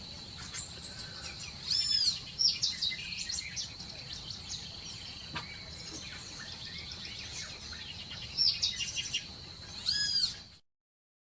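Birds chirping and calling, with loud arching whistled notes about two seconds in and near the end, over a steady high insect-like tone. It cuts off suddenly near the end.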